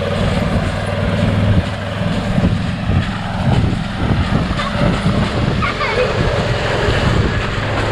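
Tractor-driven chopper box running steadily as it is run to unload: engine hum under the clatter of the unloading chain and beaters.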